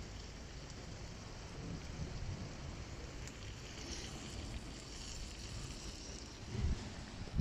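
Bacon-wrapped sandwich sizzling faintly in a frying pan on a small gas canister stove, with wind rumbling on the microphone.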